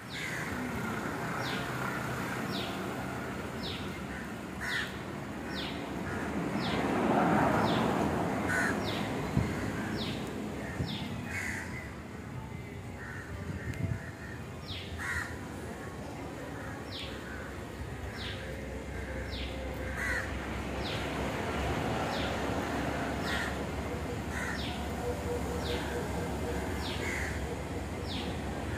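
Birds calling outdoors: a steady run of short, high, falling notes about once a second, with a lower, harsher call every few seconds. A louder rushing noise swells and fades about seven seconds in.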